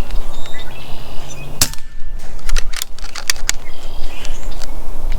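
One shot from a suppressed Niksan PCP air rifle, a single sharp crack about one and a half seconds in, kept quiet by its suppressor. It is followed by a few lighter clicks.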